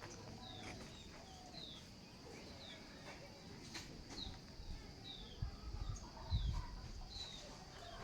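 Faint bird calls: a short, high, falling chirp repeated about once a second, over a faint steady high tone, with a few low bumps about two-thirds of the way through.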